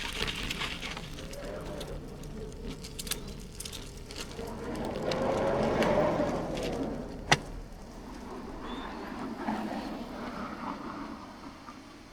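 Riding noise of a bicycle heard through a bike-mounted action camera: tyre and road noise with small clicks and rattles. A passing vehicle swells and fades about five to seven seconds in, and there is one sharp click just after it.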